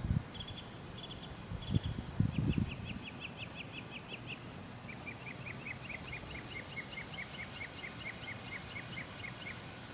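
A bird calling in long runs of short, high chirps, several a second, over faint outdoor background noise, with a few low thumps about two seconds in.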